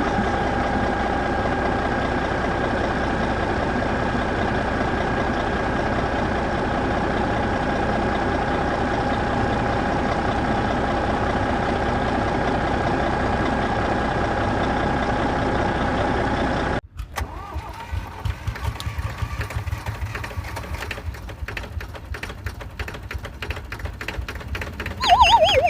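A motor running steadily with a constant whine. About 17 seconds in it cuts off suddenly, giving way to a quieter stretch of rapid clicking and rattling. A falling swoosh comes right at the end.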